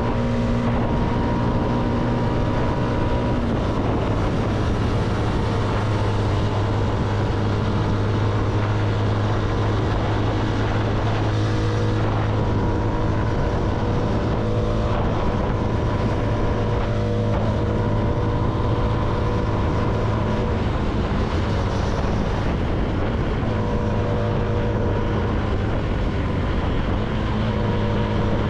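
CFMoto motorcycle engine running at a steady cruising pace, with wind and road noise. The engine note shifts slightly about three and a half seconds in, then holds steady.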